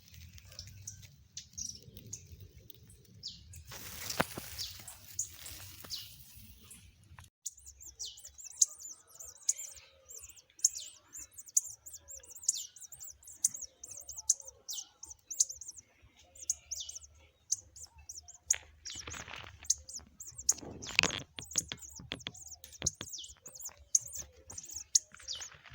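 Nestling birds chirping: thin, high cheeps, sparse at first and then repeating about once or twice a second from about a quarter of the way in. A few brief rustling noises are heard among them.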